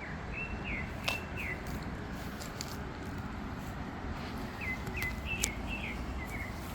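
A small bird chirping: a few short, curved notes, then a second quicker run of chirps about four and a half seconds in, over steady low outdoor background noise.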